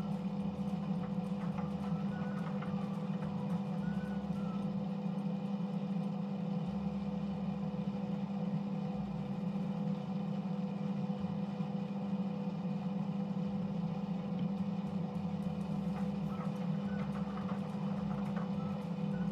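Bosch WAX32GH1 front-loading washing machine's motor turning the drum of wet towels at low speed to redistribute the load for balancing, a steady hum.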